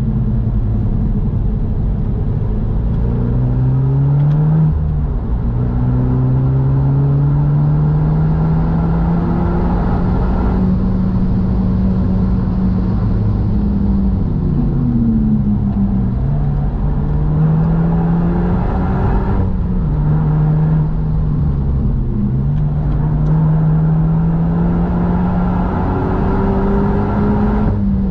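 Renault Mégane RS Trophy-R's turbocharged four-cylinder engine heard from inside the cabin at full pace, its pitch climbing in long pulls under acceleration. The pitch drops or dips at gear changes, about four seconds in, again around the middle and once more later, before climbing again.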